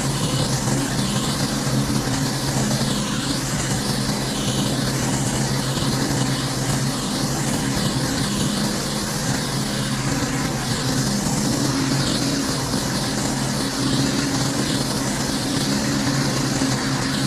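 Pressure washer running: a steady engine drone under the hiss of the high-pressure water spray.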